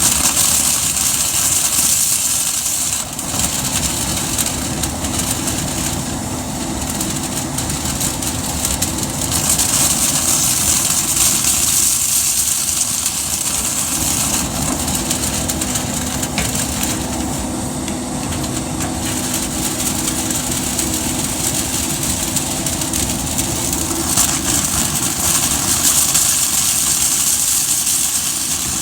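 A motor-driven cleaning machine running steadily with a loud rushing hiss of air and a low hum underneath, its tone shifting slightly every several seconds.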